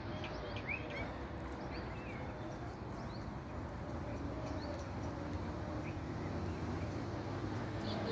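Small birds chirping now and then, short high chirps and a few falling notes, over a steady background rumble.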